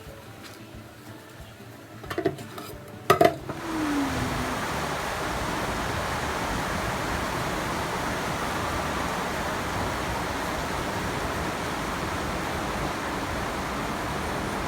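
Cookware clinking a couple of times, then a steady hissing noise sets in about four seconds in and holds steady.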